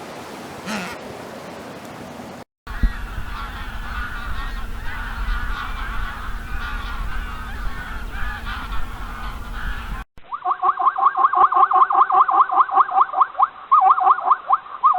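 Birds honking across cut-together clips: first a flock calling over a wind-like rumble, then from about ten seconds in a single loud run of rapid honks, several a second.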